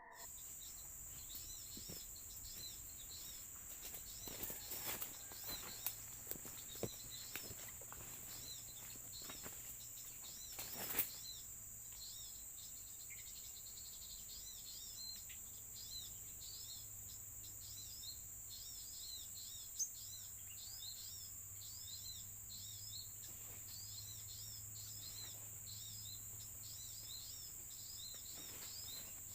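Small birds chirping in quick, repeated phrases over a steady high-pitched insect drone, with a few sharp knocks between about four and eleven seconds in.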